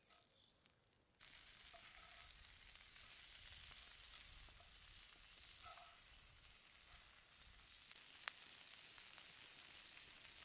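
Asparagus frying in a hot pan: a fine sizzle that starts suddenly about a second in, as the spears go into the hot fat, and keeps up steadily, with one sharp tick near the end. Faint bird chirps come before the sizzle starts.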